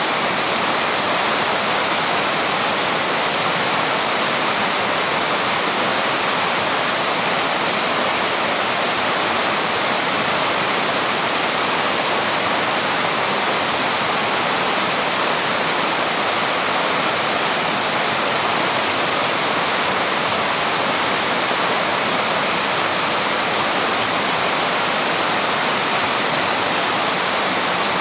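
Waterfall running steadily: an even, unbroken rush of falling water that stays at the same level throughout, more hiss than rumble.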